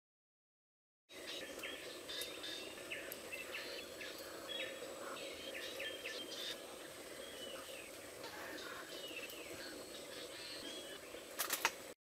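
Forest birds chirping and giving short whistled calls over a steady low hum and a thin, steady high tone, starting about a second in. A few sharp clicks near the end are the loudest sounds.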